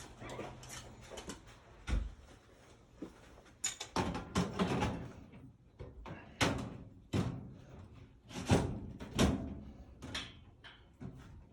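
Installation work on a furnace: a series of irregular knocks and bangs, some with a brief clatter after them. The loudest two come close together about eight and nine seconds in.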